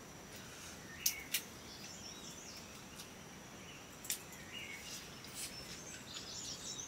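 Small birds chirping on and off over a background hiss and a steady high-pitched tone. Sharp clicks stand out: two close together about a second in and another about four seconds in.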